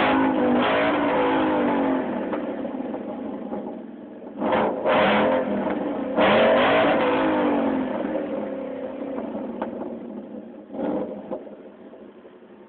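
2011 Mustang GT's 5.0 Coyote V8 through a Corsa axle-back exhaust, blipped repeatedly from idle. Two strong revs come about 4.5 and 6 seconds in and a short blip near the end, each falling back toward idle.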